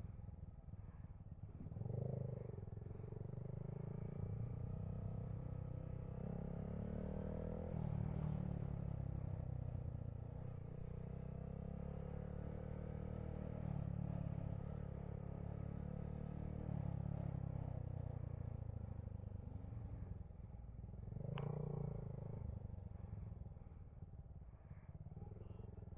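Honda Grom's small single-cylinder engine running under way, its pitch shifting up and down several times with throttle and gear changes. A brief sharp click about 21 seconds in.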